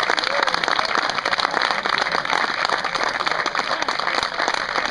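A crowd applauding: steady, dense clapping, with a few voices mixed in.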